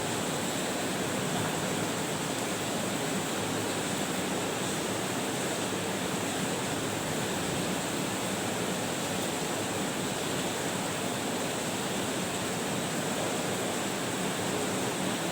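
Steady, even hiss of background noise, with no chewing, clicks or other events standing out.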